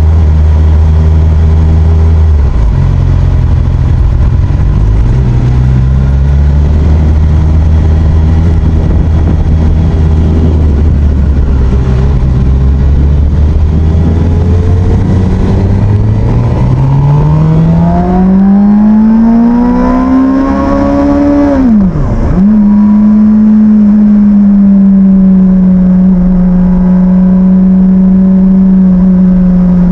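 Motorcycle engine running on the road, holding a steady low note, then climbing in pitch as it accelerates. About 22 seconds in the pitch drops sharply for a moment and the engine settles into a steady, slightly higher note.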